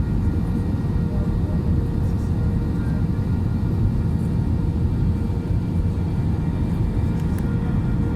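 Airplane's steady low rumble, with a faint steady hum above it.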